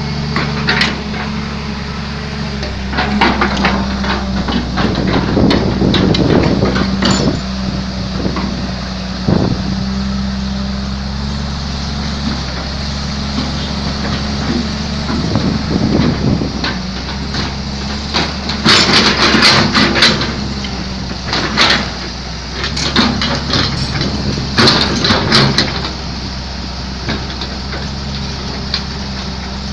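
Hyundai Robex 210LC excavator's diesel engine running steadily, with repeated knocks and clatter coming in several bursts over it.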